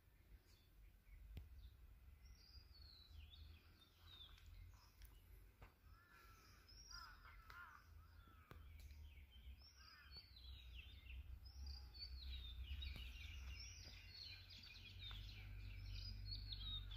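Faint birdsong: many short, falling chirps and twitters from several birds, growing busier in the second half, over a steady low rumble.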